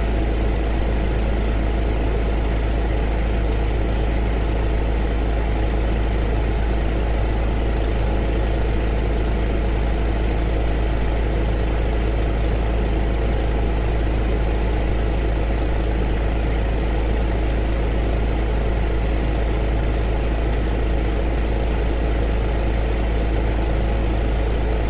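Heater running steadily: a constant rushing noise over a deep, unchanging low hum.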